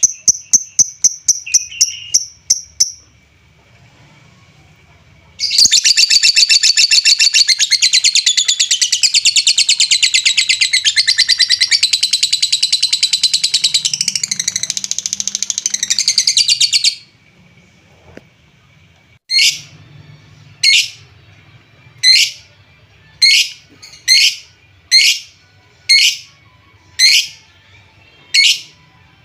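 Lovebird calling: a quick run of sharp high chirps, then a long unbroken rapid chatter lasting about eleven seconds, then single loud chirps roughly every second and a half. This is the excited chatter used as a lure recording to rouse other lovebirds into song.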